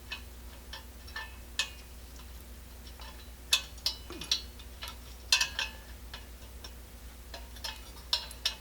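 Irregular small metallic clicks and taps as the generator of a Coleman 502 single-burner stove is fitted into its eccentric block, over a faint steady hum.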